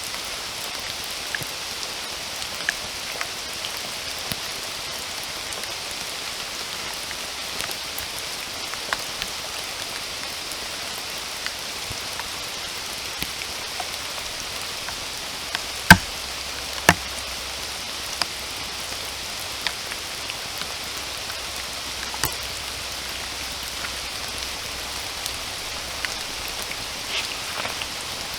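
Steady rain falling, an even hiss with scattered close drops ticking through it. Two sharper, louder drop taps stand out about halfway through, a second apart.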